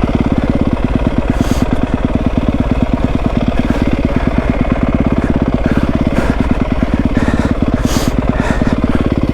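Yamaha WR250F's single-cylinder four-stroke engine running steadily at low revs with an even, rapid putter. Two brief hisses come through, about a second and a half in and near the end.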